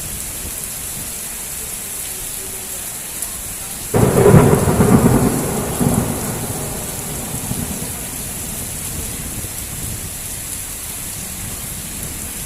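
Heavy rain falling steadily, with a sudden loud thunderclap about four seconds in that rumbles on and dies away over the next few seconds.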